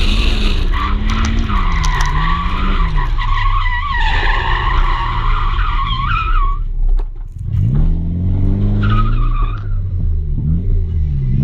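Drift car engine revving up and down while the tyres squeal in a long wavering slide that fades about two-thirds of the way through. The revs drop off, then climb again with a brief second squeal.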